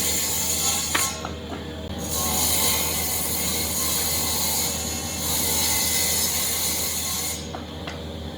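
Woodworking power tool running, with a steady low motor hum and a loud high hiss of the cutting or abrading work. The hiss stops briefly about a second in and again near the end while the hum carries on.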